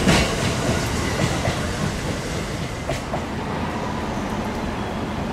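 E655-series 'Nagomi' electric train passing through at speed, its wheels clattering over the rail joints as the last car goes by. The noise fades away over the next couple of seconds.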